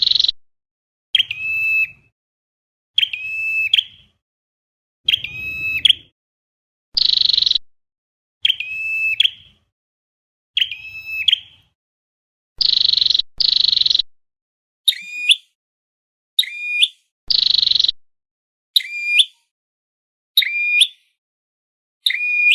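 Flowerpecker calls, the red-headed bird known as chim sâu đầu đỏ, played back as a trapping lure. Short, sharp, high calls repeat about every one and a half to two seconds.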